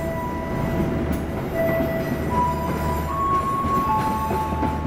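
Coaches of the Taksaka executive passenger train rolling slowly past, with a steady low rumble and several high-pitched squeals from wheels and brake shoes that start and stop every second or two. The squeals are typical of brakes being applied during a brake test.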